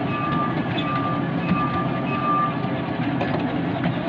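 Miniature railway train running on its track: a steady rumble with several short high-pitched squeals and occasional clicks.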